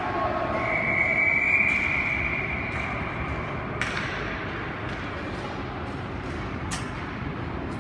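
Ice hockey rink sounds: a long steady high tone holds for about three seconds over the rink's constant background noise, then two sharp knocks, like a puck or stick striking, come a few seconds apart.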